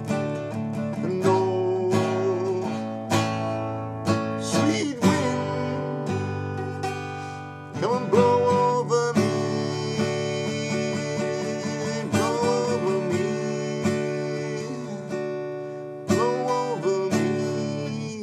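Instrumental close of a song: acoustic guitar strumming sustained chords, with a few sung or melodic phrases above, ending near the end.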